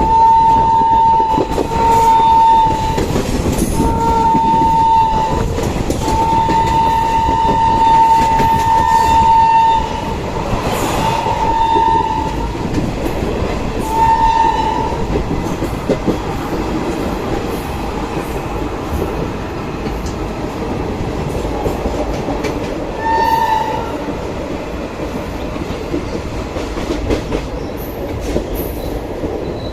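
Indian Railways train horn blowing a string of blasts, one about four seconds long, with a last short blast later, over the steady rumble and clickety-clack of the train running on the rails.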